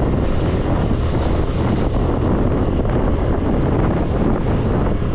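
Steady wind rush buffeting the rider's microphone on a moving scooter, with the vehicle's running noise underneath.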